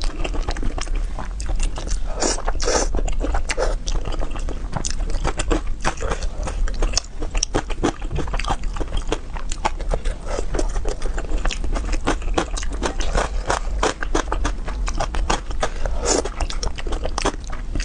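Close-miked chewing and biting of food, a dense, irregular run of quick crisp crunching clicks over a steady low hum.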